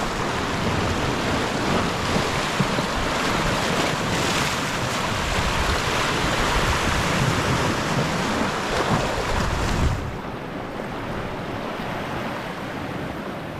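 Sea waves washing steadily onto the shore in a continuous rush. About ten seconds in it becomes softer and duller.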